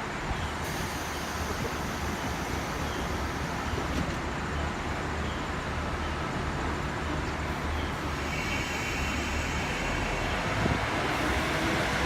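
KiHa 40 series diesel railcar's engine running with a steady low rumble, growing slightly louder near the end as the train gets ready to pull out.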